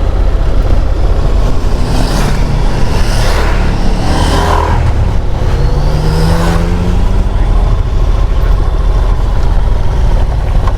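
Heavy wind and road rush on a moving motorcycle's microphone, with other vehicles passing close by in the middle: engine notes swell and then drop in pitch as they go past.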